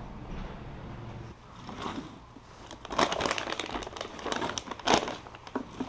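Irregular crinkling and rustling, as of something being handled, starting about two seconds in and getting louder, over a low steady hum that fades after the first second.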